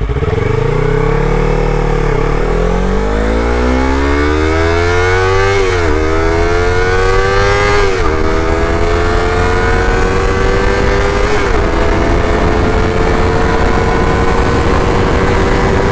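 Yamaha R3's 321cc parallel-twin engine through an Akrapovic slip-on exhaust. The revs fall briefly, then the bike accelerates, pitch rising in three pulls, each cut off by a quick drop at an upshift, and then settles into a steady, slowly rising drone.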